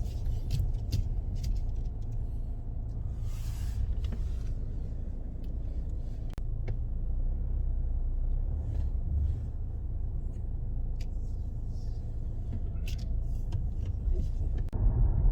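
Steady low rumble of a car driving, heard from inside the cabin, with a few faint clicks and knocks.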